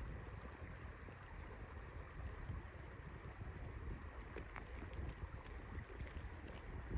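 Wind buffeting the microphone in a steady low rumble, with a few faint ticks.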